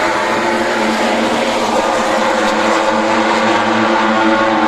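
Racing motorcycle engines running at high revs, a continuous engine drone with no break.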